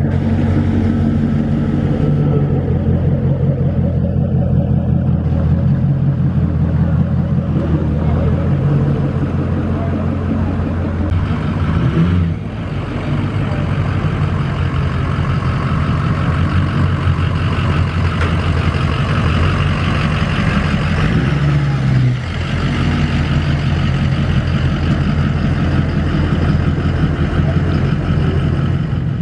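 A car engine running steadily with a deep, even note, dipping briefly twice.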